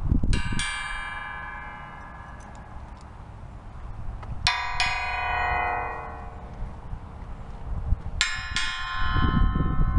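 A bicycle bell struck three times, about four seconds apart, each ring fading away over a couple of seconds, over a low rumble.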